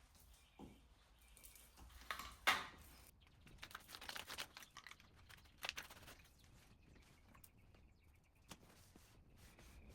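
Faint handling sounds of dough work on a kitchen counter: scattered light knocks and clicks, a sharper knock about two and a half seconds in, and a rustle a little later.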